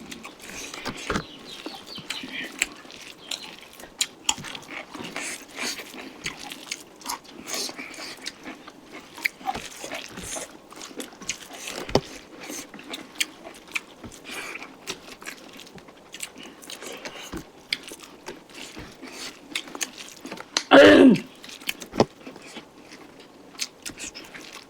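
Close-up eating sounds from a mukbang of local chicken curry: irregular chewing, lip smacks and small clicks of mouth and utensils. A brief voiced sound comes about 21 seconds in.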